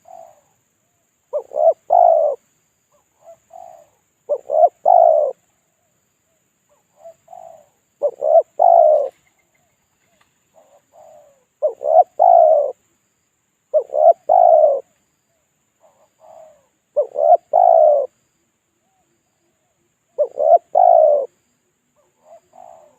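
Spotted dove cooing its repeated call phrase about every three seconds, each phrase a quick cluster of coos, with a fainter short note between phrases. It is a lure call used to draw wild doves in.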